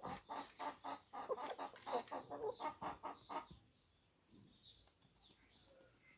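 Aseel chicken clucking in a quick run of short calls, about four or five a second, stopping about three and a half seconds in; only faint sounds follow.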